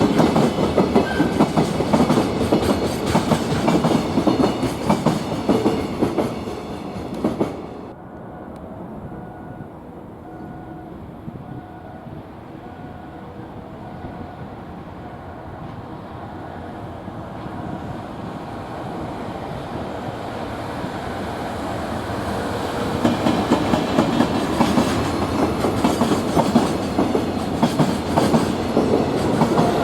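Freight train wagons rolling past with the clickety-clack of wheels over rail joints, cut off abruptly about eight seconds in. After a quieter stretch with faint, evenly repeating short tones, another freight train approaches and grows loud as it passes, from a little past twenty seconds.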